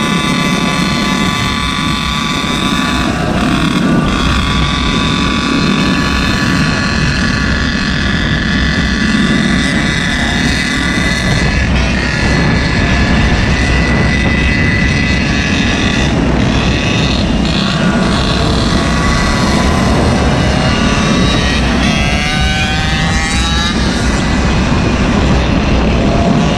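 Small engine of a motorized stand-up scooter or mini bike running steadily at speed over a constant low rushing noise. Its pitch wavers and dips about twenty-two seconds in, then climbs again near the end.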